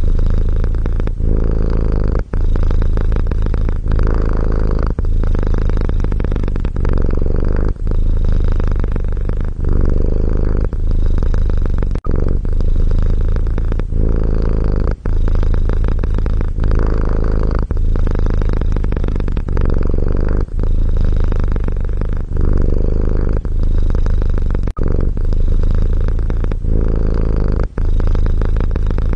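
Domestic cat purring loudly and continuously, a low rumble with a brief dip every second or two at each turn of breath.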